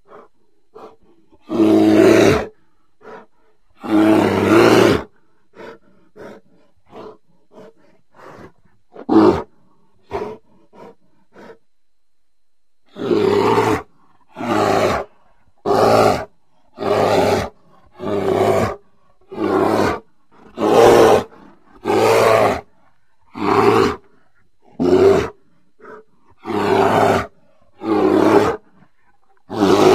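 Bear growls in repeated bursts: two long growls in the first five seconds, a few short grunts, then a steady run of growls about one a second from the middle on.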